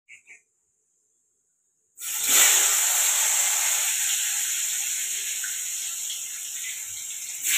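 Salt-and-turmeric-coated potato slices sizzling as they fry in hot oil in a wok. The sizzle sets in suddenly after about two seconds of near silence, then slowly fades.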